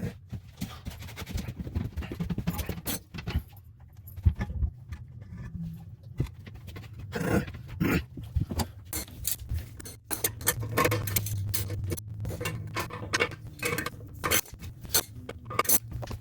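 Hand work on a toilet being reinstalled: a run of small metallic clinks, scrapes and knocks, with a low steady hum joining about ten seconds in.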